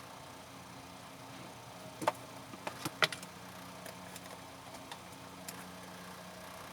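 A few sharp plastic-and-metal clicks and taps, bunched about two to three seconds in with fainter ticks after, over a steady electrical hum.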